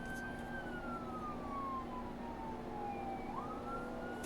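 Emergency vehicle siren wailing: one slow falling tone that sweeps back up near the end. A steady low hum runs underneath.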